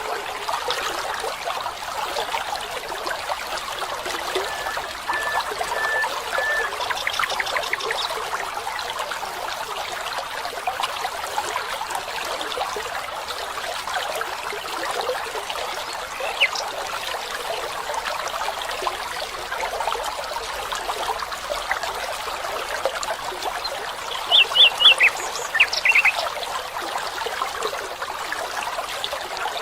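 Water trickling steadily, as of a small stream, with occasional bird calls over it: a short run of even notes about five seconds in, a single note midway, and a few loud, quick chirps near the end.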